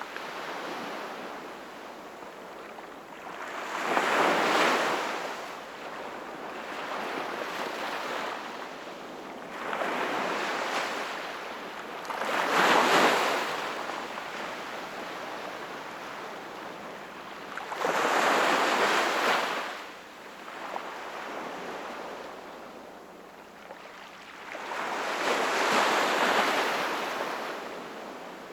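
Sea waves surging in and washing back, about five swells in a row, each one rising and fading over a few seconds.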